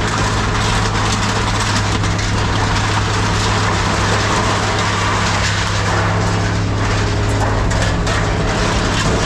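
Heavy machinery running steadily with a constant low hum and a noisy rumble, with a few short clicks and rattles near the end.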